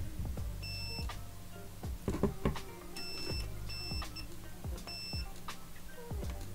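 Digital multimeter in continuity mode beeping four times, each a short high tone, as the probes are touched onto the graphics card's input capacitors, with light clicks of the probe tips between. Each beep marks the capacitor side that has continuity to ground, the minus side next to the +12 V rail. A low steady hum runs underneath.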